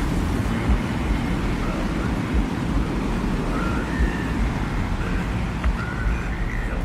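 Steady low rumble of desert wind, gusting unevenly, with a few faint short high whistling tones over it in the second half.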